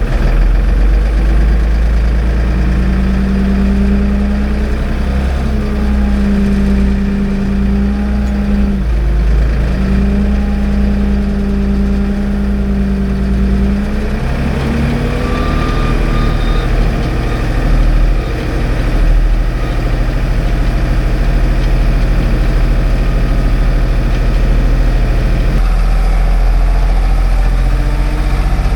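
Ford 555 backhoe's diesel engine running steadily in first gear, its drone holding one pitch for several seconds at a time and then shifting up or down a few times as the throttle and load change.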